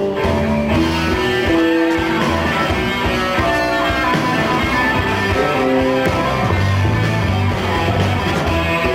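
A live rock band plays an instrumental passage led by guitar, with no singing. The melody moves through held notes over a steady bass.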